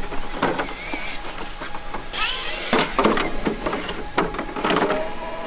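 Knocks and clicks of a Traxxas X-Maxx's plastic body shell being pressed onto the RC truck's chassis, with a rushing scrape a little past two seconds in.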